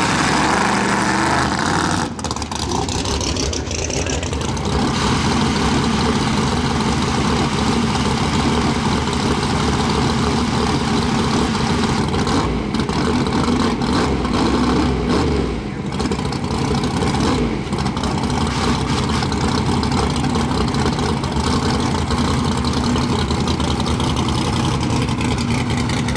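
Drag racing cars' engines. It is loudest in the first two seconds, then the pitch falls away from about two seconds in, followed by a steady engine rumble.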